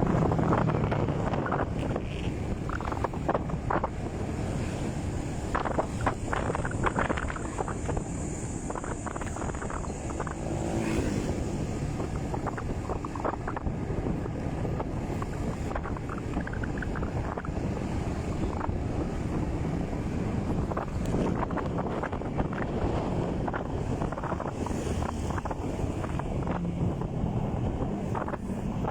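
Wind buffeting the microphone over the steady running noise of a moving motorcycle, with scattered rustles and knocks.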